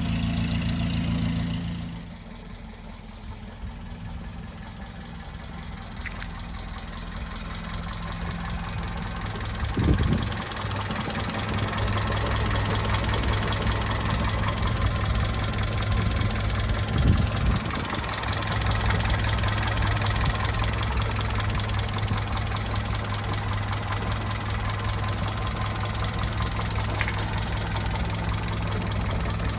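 1952 Land Rover Series 1's four-cylinder petrol engine idling after a cold start. Its sound drops quieter about two seconds in and comes back louder about ten seconds in, with two thumps, about ten and seventeen seconds in.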